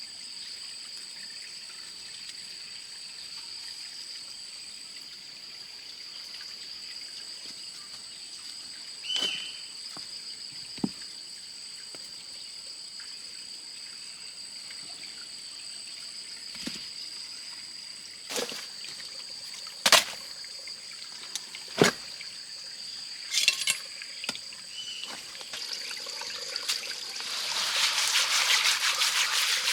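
Steady high-pitched drone of forest insects, broken by several sharp knocks. About 26 seconds in, a louder, even rush of trickling, pouring water comes in.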